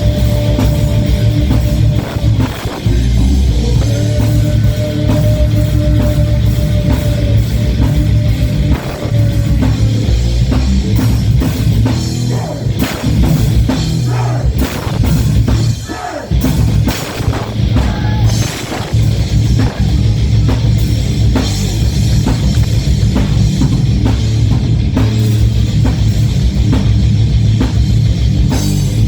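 Rock band playing heavy metal live, with electric guitars over a pounding drum kit and a held guitar note through the first several seconds.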